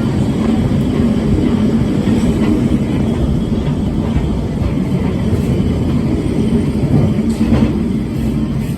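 Vintage electric tram running on its rails, a steady low rumble of wheels and running gear with the car body rattling, a brief burst of clattering about seven seconds in.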